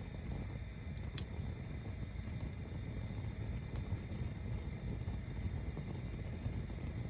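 A bonfire burning: a steady low rumble with a few sharp crackling pops, the strongest about a second in.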